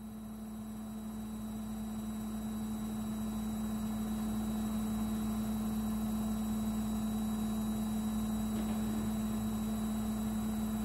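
Midea front-loading washing machine running with a steady electric hum, growing louder over the first few seconds and then holding even.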